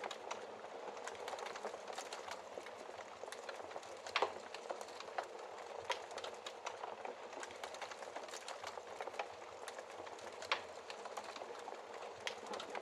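Wood fire burning in a fireplace: a steady crackle full of small pops and ticks, with a louder snap about four seconds in and another about ten seconds in.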